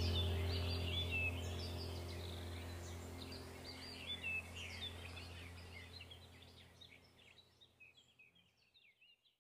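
Birds chirping and singing over a steady low hum, the whole fading out gradually to silence.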